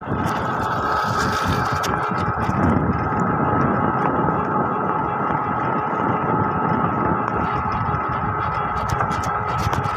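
An engine running steadily at an even speed, with a constant high whine over its rumble.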